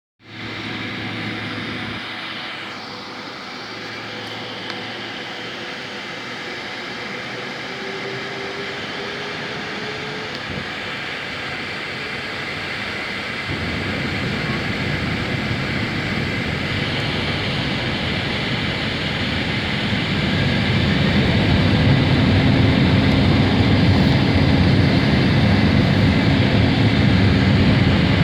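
Boeing 767-300ER jet engines heard from inside the passenger cabin, a steady engine noise that steps up in loudness about 13 seconds in and again about 20 seconds in, with a deepening low rumble as thrust builds for the takeoff roll.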